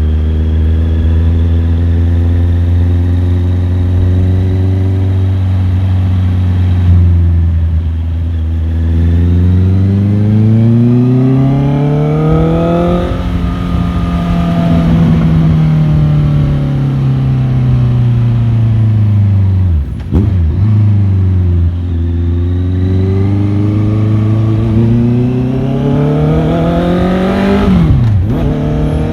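Motorcycle engine under way. It holds steady revs at first, then revs rise for a few seconds and fall away slowly. After a brief sharp dip it climbs again, and near the end the revs drop sharply.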